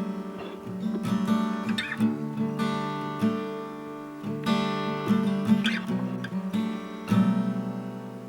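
Background music: strummed acoustic guitar chords, changing about every second or two.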